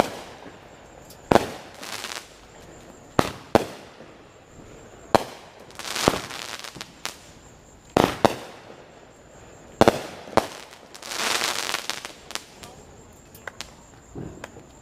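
Consumer fireworks going off: a string of sharp bangs every second or so, some in quick pairs. About eleven seconds in comes a longer, noisier burst lasting over a second.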